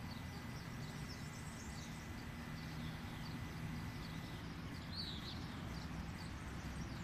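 Faint birds chirping, with many short scattered calls and a slightly clearer one about five seconds in, over a steady low background rumble.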